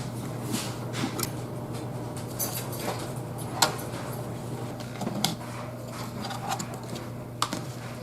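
Scattered sharp clicks and light clinks of tools and parts being handled during work on a pickup truck, over a steady low hum.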